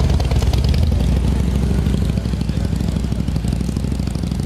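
Motorcycle engine idling, a steady low pulsing that eases off slightly toward the end.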